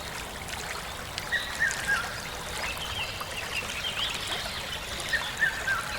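Several birds chirping and calling over a steady outdoor hiss, with a run of three short falling notes heard twice, about a second and a half in and again near the end.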